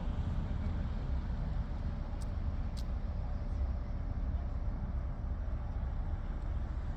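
Steady low outdoor rumble with no distinct events, and two faint high ticks between two and three seconds in.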